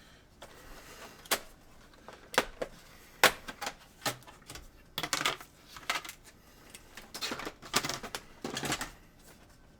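Irregular clicks and knocks of hard plastic as a PS4 console is handled, scattered at first and coming in quicker clusters in the second half.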